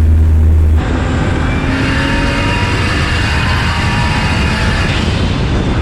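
Turbocharged VVT-i 1JZ inline-six in a Lexus LS400, heard from inside the cabin pulling hard under acceleration. A heavy low drone gives way abruptly about a second in to a harsher rush with a faint rising whine.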